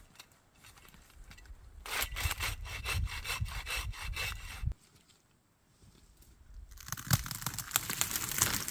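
Small hand saw cutting through the trunk of a standing dead tree with quick back-and-forth strokes. It saws for about three seconds, stops for about two seconds, then starts sawing again near the end.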